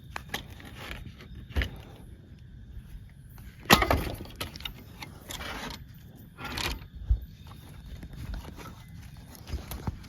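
Footsteps and rustling on a forest floor, with twigs cracking underfoot; a loud crack about four seconds in.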